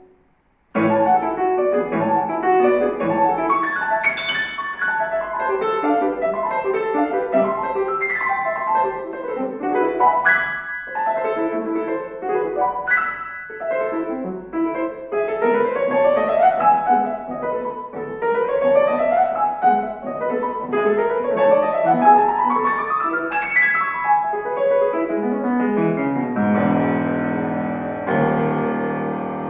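Solo piano playing a fast classical piece: after a short pause, quick runs of notes, with three rising arpeggio sweeps in the middle and fuller, held chords near the end.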